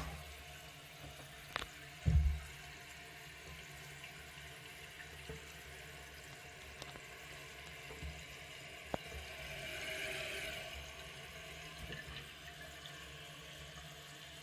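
American Standard Champion Pro toilet tank refilling after a flush: a faint, steady run of water into the tank. A sharp click and a short thump come about two seconds in, with a few light clicks later.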